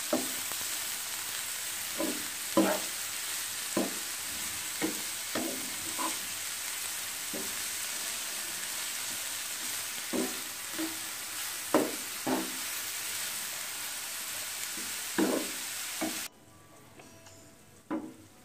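Carrots and potatoes frying in oil in a pan, a steady sizzle, with a spatula knocking and scraping against the pan every second or so as they are stirred. Near the end the sizzle cuts off suddenly, leaving only quieter clinks.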